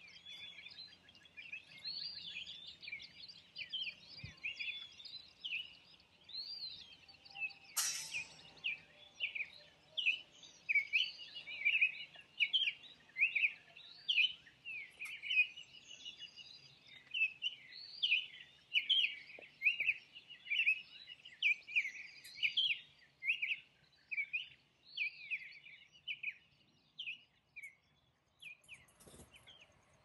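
A flock of small birds chirping and twittering without a break, many short calls overlapping one another, with a single sharp click about eight seconds in.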